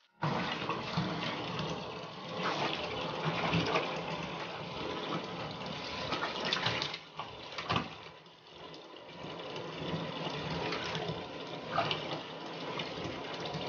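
Bathtub tap running, water pouring steadily into the tub, with a couple of brief louder knocks or splashes about seven seconds in.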